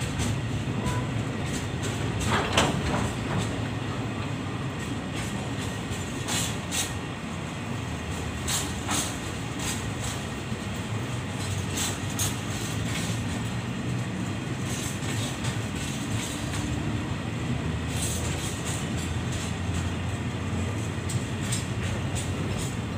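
Freight train rolling past with a steady rumble, its wagon wheels giving irregular sharp clacks over the rail joints.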